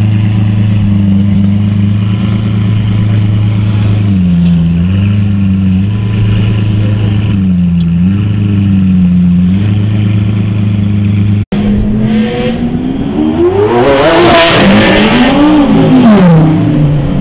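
Lamborghini Aventador's 6.5-litre V12 idling steadily, its note sagging briefly now and then. After about eleven and a half seconds it is revved and accelerates away into a tunnel: the engine note rises to a loud peak, falls, rises once more and drops away.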